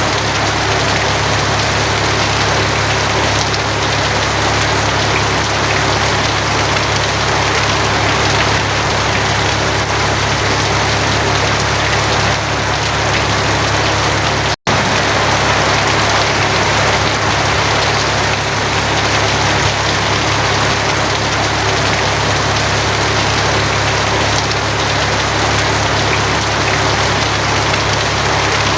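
Heavy rain drumming steadily on a tin roof, a dense, even patter, over a steady low hum. The sound cuts out for an instant about halfway through.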